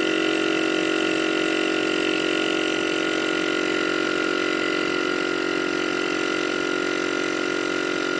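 Old 12-volt air-ride compressor running with a steady hum under a bench test, struggling to build pressure. It is worn out: it stalls at about 100 PSI, well short of the 180–200 PSI it should reach.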